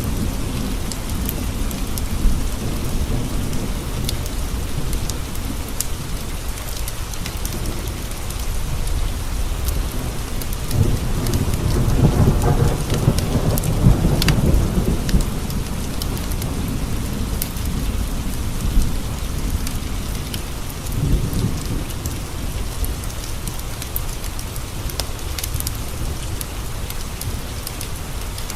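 Steady rain on window glass, with a long roll of thunder rumbling through the middle, and scattered small crackles and pops from a wood fire.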